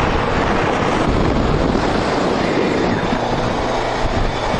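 Wind rushing over the microphone with road noise and a steady engine hum from a moving vehicle; the low engine tone grows clearer about three seconds in.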